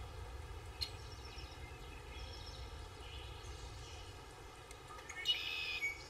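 Outdoor ambience: a steady low rumble with faint bird chirps, a single click about a second in, and a louder burst of chirping about five seconds in.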